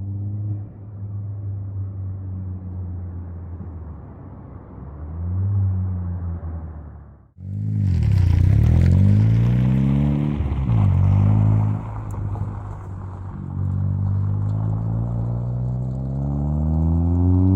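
Ford Fiesta ST's turbocharged four-cylinder running through a 3-inch Rev9 catback exhaust. It idles with a short rev about five seconds in. After a cut it is louder and revs up several times, the pitch climbing and dropping, then climbs steadily near the end.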